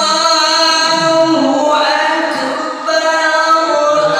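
Unaccompanied singing voice holding long, wavering melodic notes that shift in pitch from one held note to the next.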